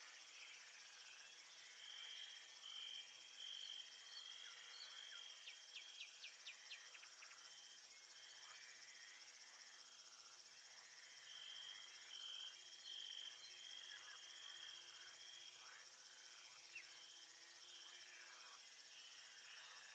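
Faint crickets and insects chirping in a steady high chorus. A trilling cricket pulses in stretches, and a quick run of short chirps comes about six seconds in.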